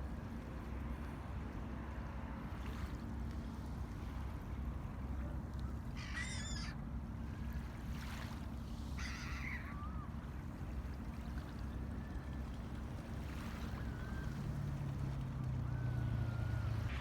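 Steady low outdoor rumble with two short bird calls about six and nine seconds in, and a few faint chirps later. A low hum joins in near the end.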